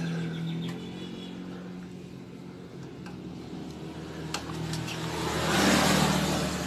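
A vehicle engine running nearby with a steady hum, swelling louder near the end as a vehicle passes or revs, with a few sharp clicks in between.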